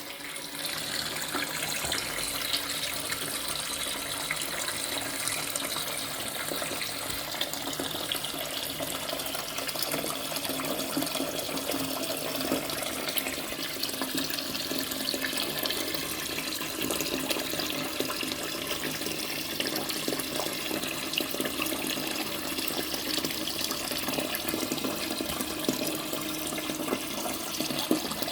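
Twyford Option close-coupled toilet cistern filling steadily through its ball-type fill valve, a continuous hiss and rush of water.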